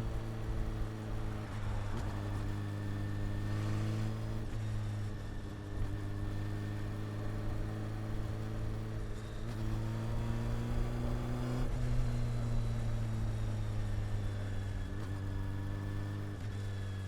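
Honda CB400 Super Four's inline-four engine and exhaust running steadily under way. The pitch climbs slowly and drops back a little about twelve seconds in, with road and wind noise underneath.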